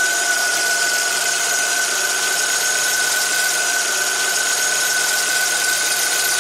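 Chevrolet Tornado pickup's four-cylinder engine idling steadily with the hood open, with a steady high-pitched whine over the running engine.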